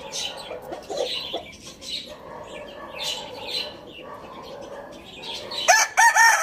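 Birds chirping and clucking. Near the end a rooster starts to crow loudly, its call opening in a few short rising notes.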